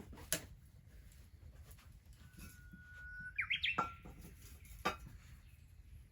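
A bird singing: one long steady whistled note followed by a quick flourish of rising notes. Two sharp clicks, one just after the start and one near the end.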